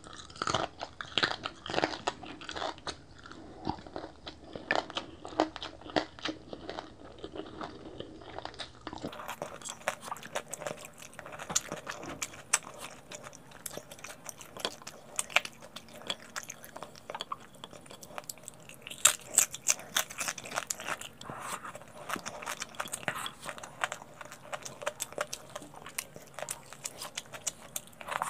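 Close-miked chewing with many sharp, irregular crunches of crispy fried pork belly (lechon kawali) crackling skin.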